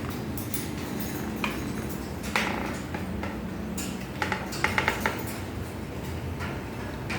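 A few sharp clicks and light clattering taps, with a quick run of about four in the middle, over a steady low hum.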